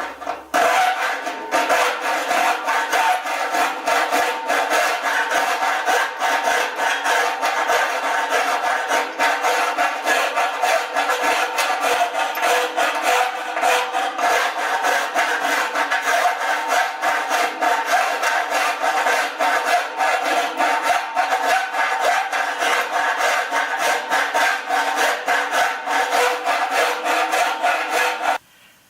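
Metal file rasping back and forth on the bandsaw's metal, filing out a rough hole that was drilled as a ring of small holes. Quick, even strokes with a steady metallic ring under them, stopping abruptly near the end.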